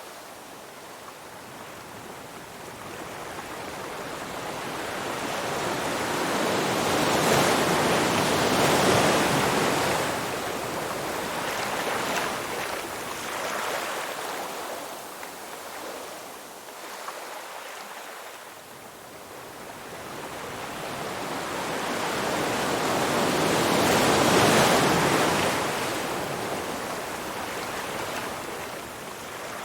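Ocean waves washing onto a shore, two slow swells that rise to a peak about eight seconds in and again near twenty-four seconds, then ebb away.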